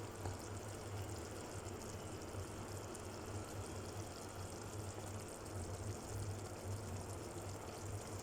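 A pot of chicken adobo simmering in its vinegar sauce, a steady low bubbling, over a constant low hum.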